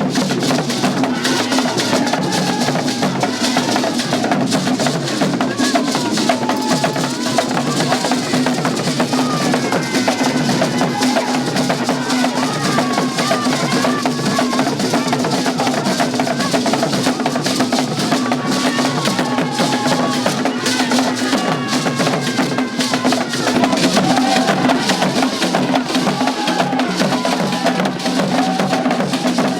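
Festival music: dense, driving drumming and percussion with a clacking wood-block-like beat, and wavering voices singing over it.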